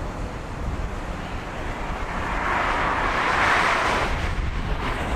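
Car driving with wind and road noise, a steady low rumble with a rushing whoosh that swells about halfway through and fades again.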